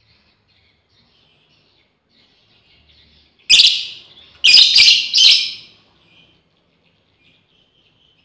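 Lovebirds chattering softly, then four loud, shrill calls: one about three and a half seconds in, then three in quick succession a second later. This is a female lovebird calling for companions.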